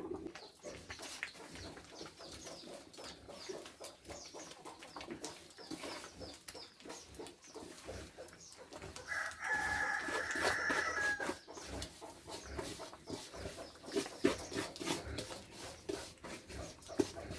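A rooster crowing once, a held call of about two seconds near the middle. Faint high chirps and light clicking run throughout.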